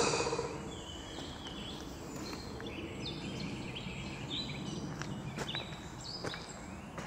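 Wild birds chirping in short, high notes, repeated throughout, over a steady outdoor hiss, with a few faint clicks.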